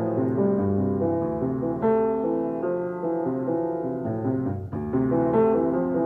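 Piano music: chords and melody notes played at a moderate pace.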